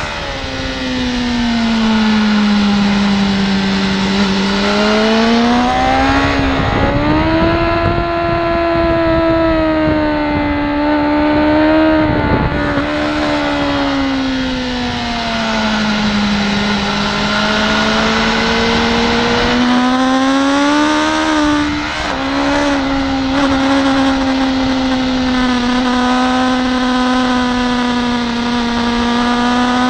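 BMW S1000RR's inline-four engine at high revs, heard onboard, its pitch falling and climbing again several times as the bike slows for corners and accelerates out of them, with two brief breaks in the drive, one about halfway through and one about two-thirds in. Wind rush runs under the engine note.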